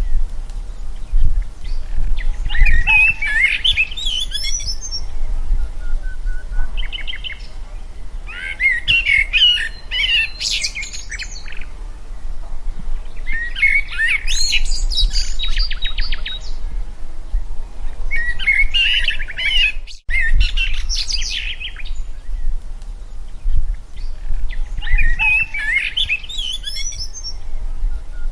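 A songbird singing short, quick phrases of rising and falling notes, repeated about every five seconds, over a steady low rumble. The sound cuts out briefly about two-thirds of the way through.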